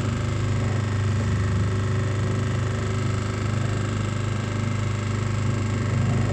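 Motor boat's engine running steadily at cruising speed, a constant low drone with a steady hum, heard from on board.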